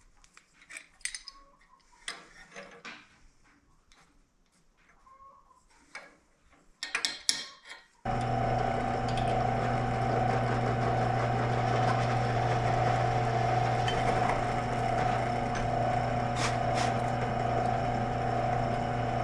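A few light metallic clicks and taps of small parts and tools being handled. About eight seconds in, a drill press motor switches on and runs steadily at constant speed.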